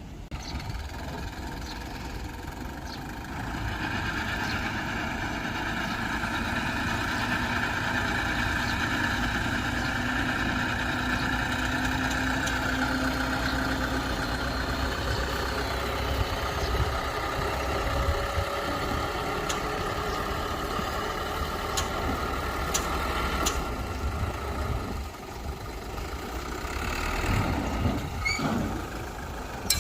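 Heavy diesel engine of construction machinery running steadily under load, getting louder a few seconds in, easing off briefly and picking up again near the end, with a few sharp metallic clicks in between.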